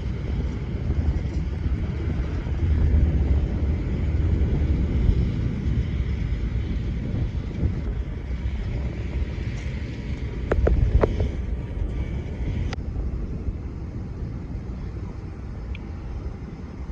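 Aircraft engine rumble, low and continuous, easing off toward the end, with a few short tones and clicks about ten to eleven seconds in.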